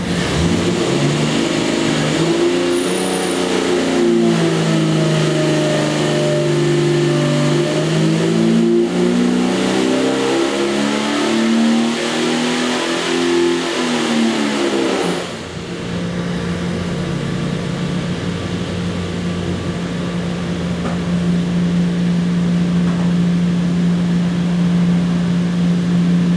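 Jeep 4.6 stroker inline-six engine running on an engine dyno, revving under load with its pitch sweeping down and back up. About fifteen seconds in, the revs drop sharply and it settles to a steady lower speed.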